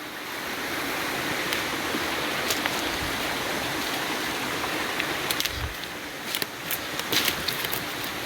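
River stream water rushing steadily. In the second half, scattered short clicks and knocks sound over it.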